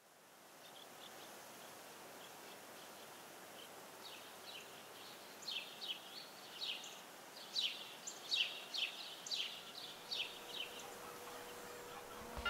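Countryside ambience fading in: a steady outdoor hiss with a bird calling. From about a third of the way in, the bird gives a run of short, quick chirps in groups.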